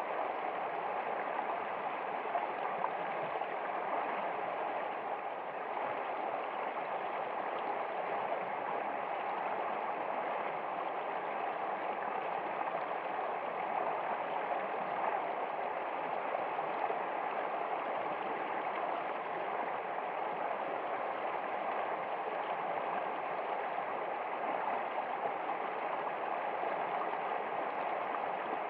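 Water flowing in a stream, a steady, unbroken sound without pauses.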